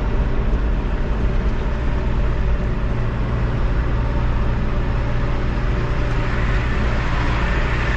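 Farm loader's diesel engine running steadily, with a constant low drone.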